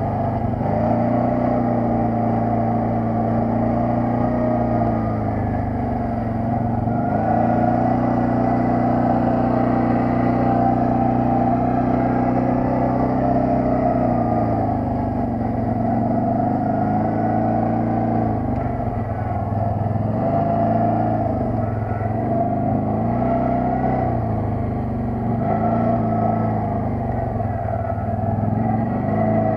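ATV engine running under way, its pitch rising and falling as the throttle is opened and eased: a long steady pull in the middle, then several short rises and drops near the end.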